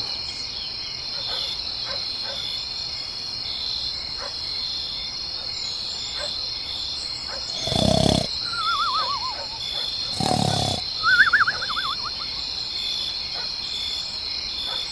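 Rural ambience: a steady high chirring of insects throughout. Two short, loud animal calls come about 8 and 10½ seconds in, each followed by a wavering trill.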